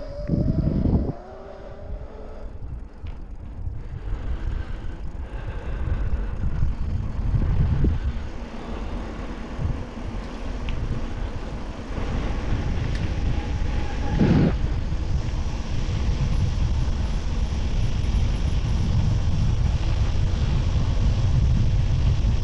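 Wind buffeting the GoPro's microphone while riding, a low rumbling rush that grows louder and steadier about halfway through.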